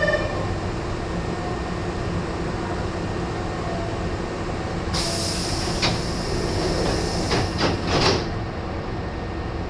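Nose Electric Railway 1700 series train standing at the platform with a steady hum. About five seconds in, a sharp hiss of compressed air starts, with several thumps over the next three seconds, as the pneumatic doors close for departure.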